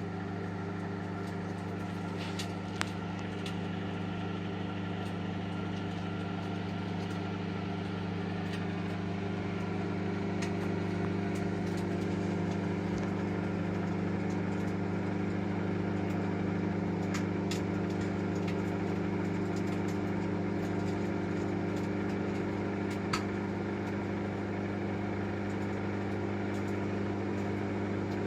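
Microwave oven running: a steady low electrical hum with a few faint ticks, growing slightly louder about ten seconds in.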